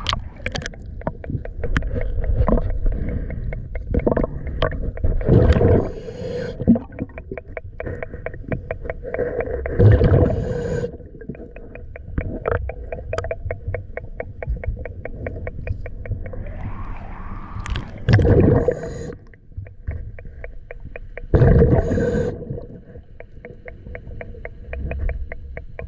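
Scuba diver's regulator breathing heard underwater: exhaled bubbles rushing out in loud, low bursts every four to eight seconds, over a rapid, even ticking.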